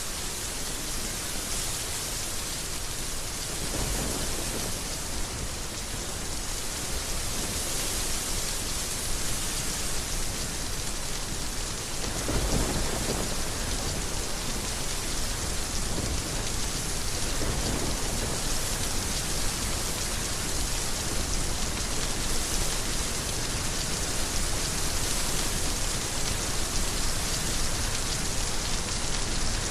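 Heavy rain pouring steadily in a dense hiss, with deep low rumbles swelling up about 4, 12 and 17 seconds in; the loudest comes about 12 seconds in.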